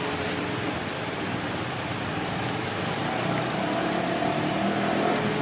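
Steady hiss of falling rain, with a faint low hum of a standing diesel locomotive underneath that grows a little louder about three seconds in.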